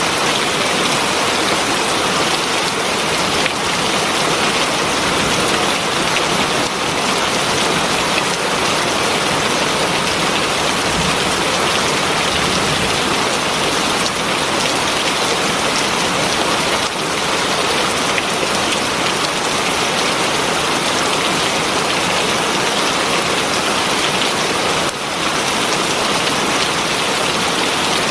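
Heavy rain falling steadily, a dense even hiss of rain striking surfaces.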